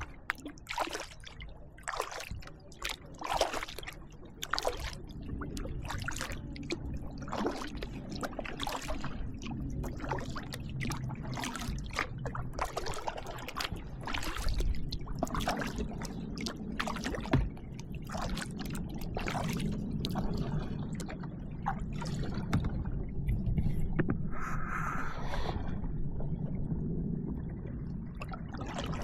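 Kayak paddling: the blades dip and splash, and water trickles off them, every half second to a second, over a steady low rumble. The strokes thin out near the end.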